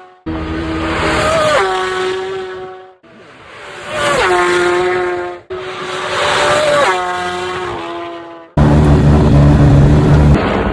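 Racing motorcycles at full throttle flashing past one at a time: each engine note swells as the bike approaches, then drops sharply in pitch as it goes by, about three passes in quick succession. About two-thirds of the way in, this switches abruptly to a louder, steady, deep engine note.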